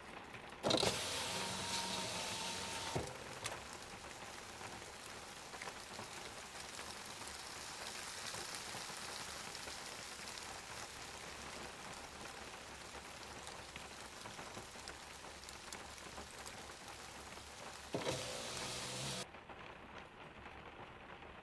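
Steady heavy rain falling on a minivan, heard from inside the cabin as an even hiss. Two short louder stretches with a steady hum in them come about a second in and near the end.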